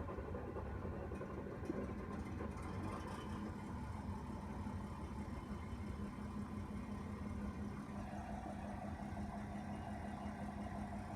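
John Deere tractor's diesel engine idling steadily just after a cold start.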